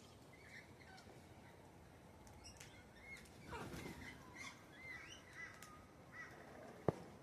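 Faint bird chirps and short calls in the background, with a single sharp click near the end.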